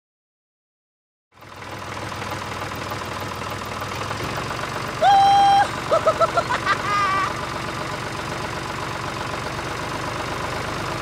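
A tractor engine idles steadily, starting about a second and a half in. About five seconds in a horn sounds once for half a second, then comes a quick string of high, squeaky cartoon-voice chirps.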